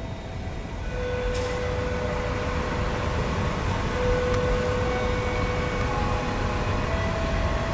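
A diesel train's low rumble, growing louder over the first couple of seconds and then holding steady, with a steady high whine running through most of it.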